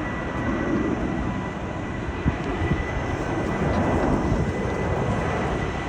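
Distant airplane's engines running at the airport below, a steady rumble with a thin high whine; the plane is not taking off. Two brief knocks a little after two seconds in.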